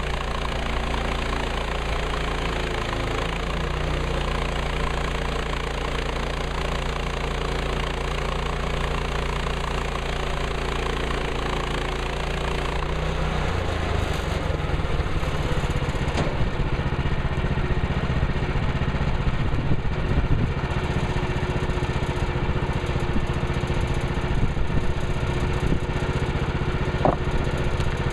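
Woodland Mills 130 Max bandsaw sawmill's gas engine running steadily. About halfway through, the sound turns rougher and busier, with a few sharp ticks near the end.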